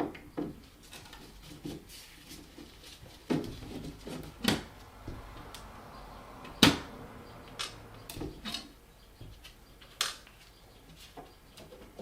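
Scattered clicks and knocks of objects being handled, about a dozen at uneven intervals, the loudest about two thirds of the way through.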